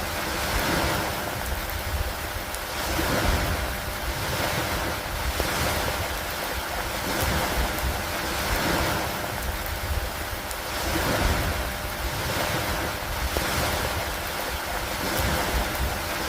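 Steady rain and lake-water ambience: a wide hiss that swells and fades about every two seconds, like waves washing in, over a steady low rumble.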